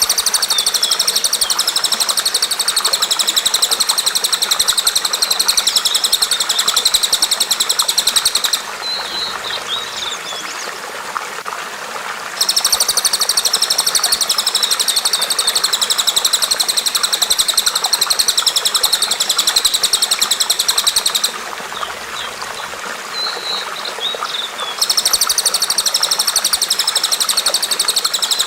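A small songbird sings a high, very rapid, buzzy trill in long spells of about eight seconds, twice broken by a few seconds of short chirps. Running water flows steadily underneath.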